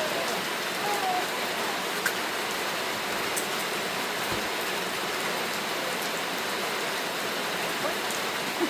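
Heavy rain falling steadily, a dense even hiss, with a few sharper drip taps landing here and there.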